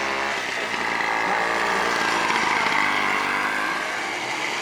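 Small race-tractor engine running hard, its pitch shifting up and down as the tractor is driven over the course.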